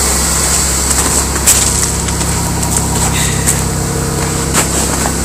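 Supercharged 3.8-litre (3800 L67) V6 of a 1998 Oldsmobile LSS idling steadily, still warming up after a cold start, with a few light clicks over it.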